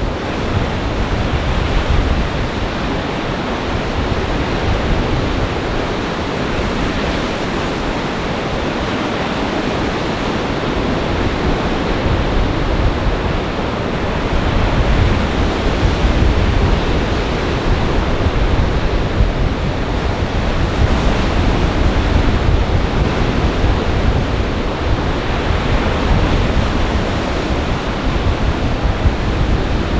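Lake Michigan waves breaking on the shore in a gale, a steady loud wash of surf, with strong wind gusting across the microphone in low, uneven rumbles.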